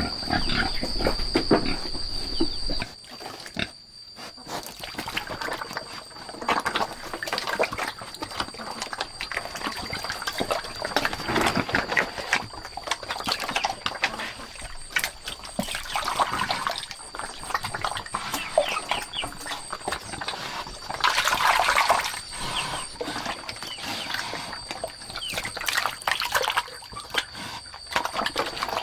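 Farm pigs grunting and snuffling, with scattered rustling and clatter. A thin steady high tone runs in the background, dropping out briefly about three seconds in.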